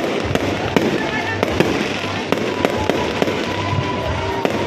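Fireworks going off in a rapid, irregular series of sharp bangs and crackles, over steady background noise and music.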